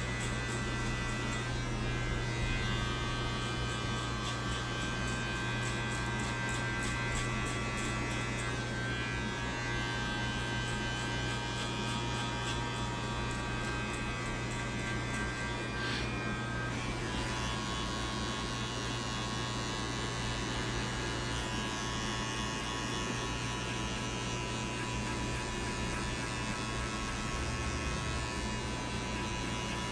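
Electric hair clippers running with a steady buzzing hum while cutting a fade.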